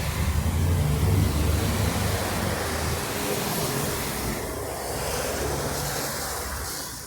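A motor vehicle passing on a rain-soaked street. Its engine hum is loudest over the first few seconds and then eases, over a steady hiss of rain and wet tyres.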